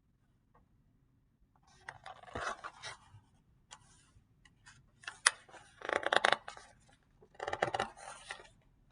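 Pages of a paper picture book being handled and turned: three spells of paper rustling and scraping with a few sharp clicks.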